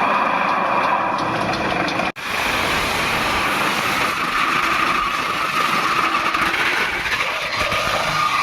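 Steady machinery running in a metalworking shop, a continuous mechanical drone and hiss. It cuts out abruptly for an instant about two seconds in, then carries on.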